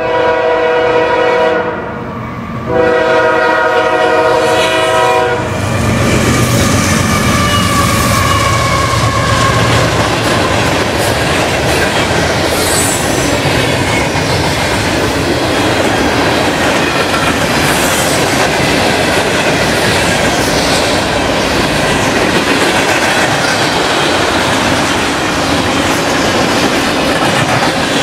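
Freight train's diesel locomotive air horn sounding two long blasts, the second ending about five seconds in. The train then rolls past close by, with steel wheels rumbling and clacking over the rails as the covered hopper cars go by.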